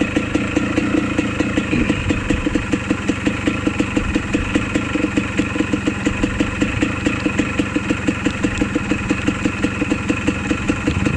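Dirt bike engine idling steadily, with an even beat of about five pulses a second.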